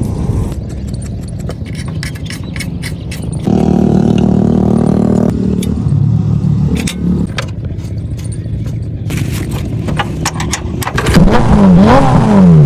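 Car engine running with a steady rumble, getting louder for a couple of seconds about three and a half seconds in, then revving near the end, its pitch swinging up and down several times.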